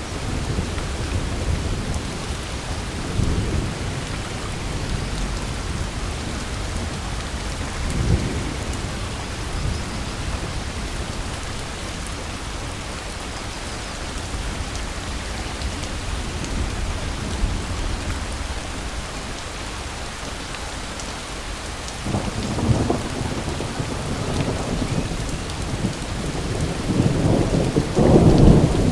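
Steady rain with rolls of thunder: low rumbles about three and eight seconds in, then a longer thunder roll that builds from about two-thirds of the way through and is loudest near the end.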